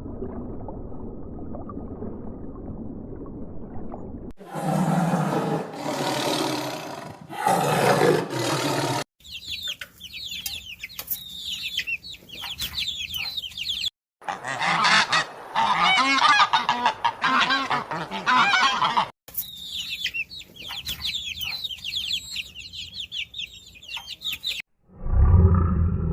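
Waterfowl honking and chattering as a flock, in several short segments that start and stop abruptly, after about four seconds of low, muffled noise at the start. A loud low rumble comes in just before the end.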